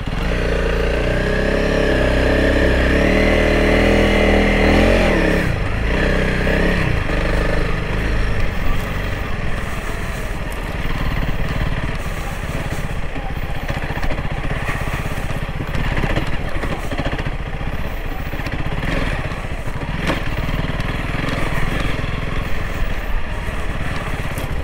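Honda CRF300L Rally's single-cylinder four-stroke engine running while being ridden, pulling with a strong steady note for about five seconds. The note then drops back to a lower, steadier running sound.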